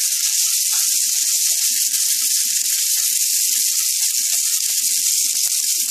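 Moong dal, chopped green chilli and freshly added diced tomato frying in hot oil in a kadai: a steady high sizzle with faint scattered crackles.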